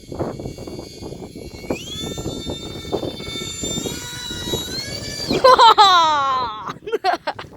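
Electric ducted-fan whine of a UMX A-10 micro RC jet. It steps up in pitch as it is throttled up, then passes close with a loud, falling-pitch flyby over gusting wind on the microphone.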